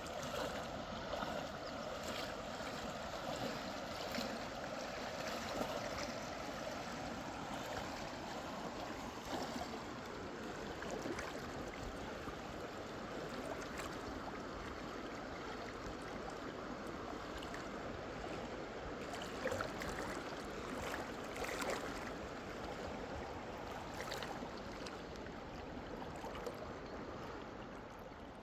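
A mountain river flowing steadily over rocks, with a few faint knocks or splashes about two-thirds of the way through.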